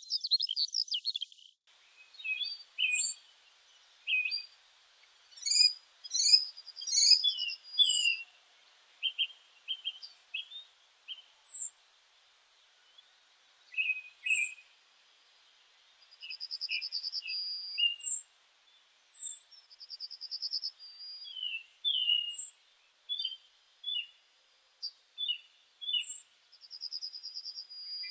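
Several songbirds singing and calling: a thin high note repeated every second or two, short trills lasting about a second, and scattered chirps, with no wind or water beneath.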